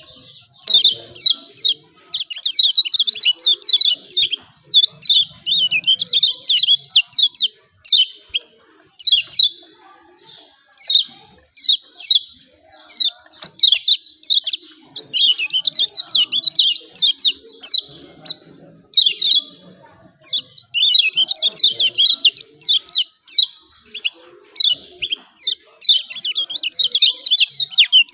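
Kecial kuning (Lombok yellow white-eye) giving fast, excited 'ciak ciak' chirps in rapid bursts of one to two seconds with short pauses between them. These are the agitated calls used as a lure to provoke a reluctant caged white-eye into singing.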